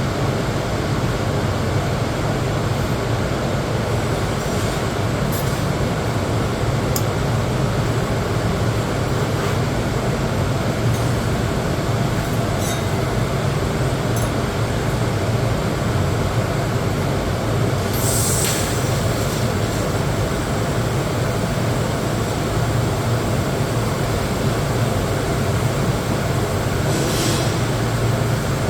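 TIG welding arc on mild steel, a steady hum and hiss with a couple of brief crackles about two-thirds of the way through and near the end.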